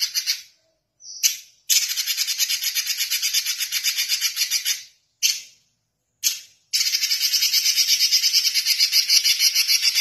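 Red-billed leiothrix (Pekin robin) giving high, rapid rattling trills of about ten notes a second. The trills come in runs several seconds long and short bursts, starting and stopping abruptly.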